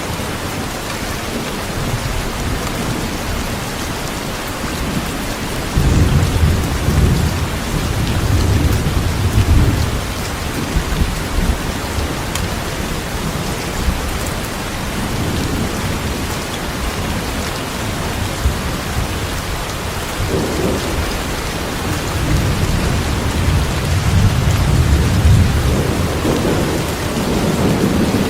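Steady heavy rain, with rolling thunder rumbling deep beneath it in swells, loudest about six to ten seconds in and again in the last few seconds.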